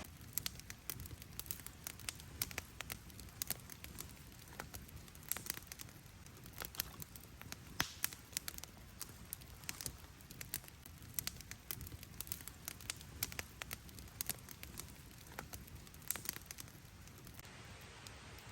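Wood campfire crackling, with irregular sharp pops and snaps over a low hiss; the crackling stops about a second before the end.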